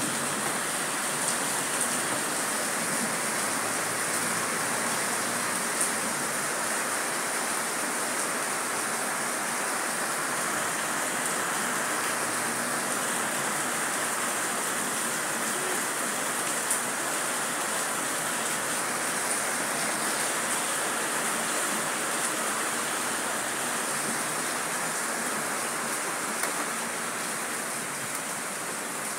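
Heavy rain pouring steadily: a dense, even hiss of rain on the street, grass and leaves, with a few sharper ticks.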